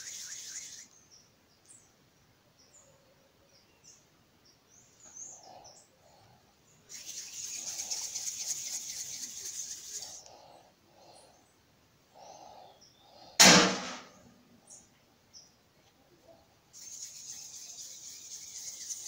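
Bird chirping and trilling in spells of about three seconds, with short chirps between them. One sharp knock about thirteen and a half seconds in is the loudest sound.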